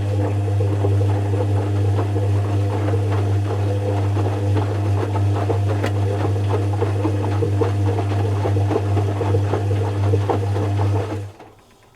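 Zanussi FC1000 compact washing machine running: a loud, steady low hum with a busy crackling rattle over it, which cuts off suddenly about eleven seconds in.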